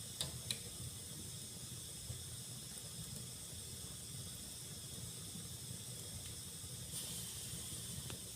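Wood fire burning in a fireplace: a steady hiss with two sharp pops from the burning wood just after the start.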